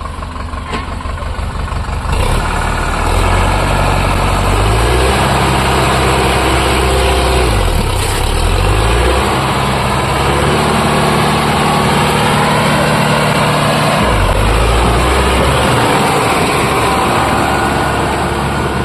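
Sonalika DI 750 tractor's diesel engine running. It grows louder about two seconds in, and its pitch shifts up and down several times.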